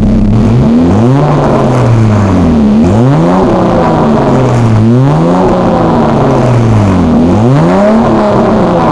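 Mazda KLZE 2.5 L V6 in a Ford Probe GT revved through a side-exit exhaust: four quick blips of the throttle, the pitch jumping up and then sinking slowly back toward idle each time.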